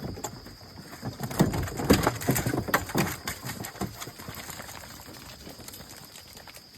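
Bear-hunting hounds being turned loose: a burst of clattering, scrabbling and short animal cries lasting a few seconds, then fading as they run off.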